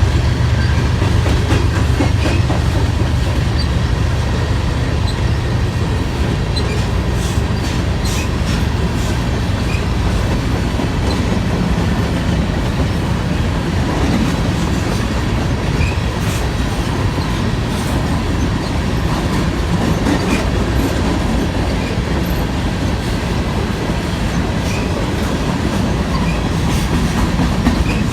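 Covered hopper cars of a grain train rolling past at speed: a steady rumble of steel wheels on rail with rhythmic clicking over the rail joints.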